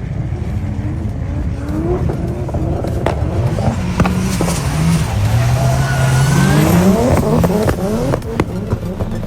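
Car engine revving up and down, its pitch climbing to a peak and falling away, with several sharp cracks.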